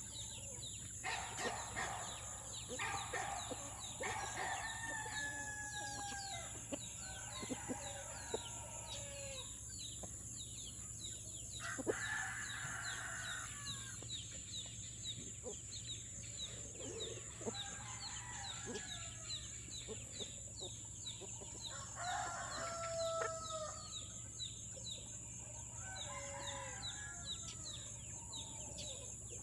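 Chickens clucking with roosters crowing several times in turn, each crow a long call falling in pitch, over a steady high-pitched hiss.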